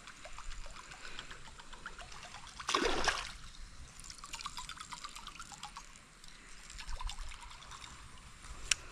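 Creek water trickling, with many small drips and ticks. About three seconds in comes a brief, louder burst of noise, and near the end a single sharp click.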